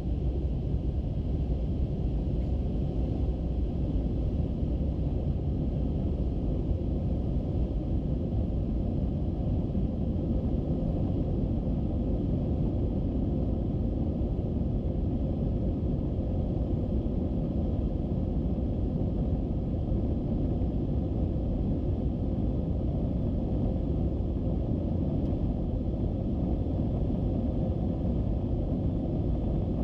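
Airbus A321-200 jet airliner heard from inside the passenger cabin: a steady low rumble of engine and airflow noise with a faint steady hum.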